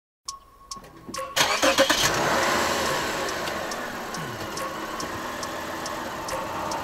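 Lexus GS350's V6 engine starting about a second and a half in, then running at idle, its level easing slightly as the idle settles.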